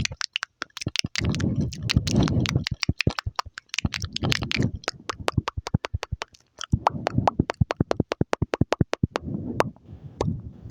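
Close-up mouth sounds: rapid clicks and smacks, several a second, with short low muffled bursts in between.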